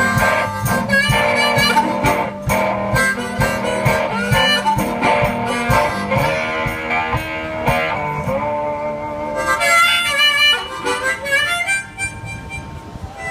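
One-man band playing a blues passage: harmonica melody over guitar, with a steady beat through the first half. It gets quieter near the end.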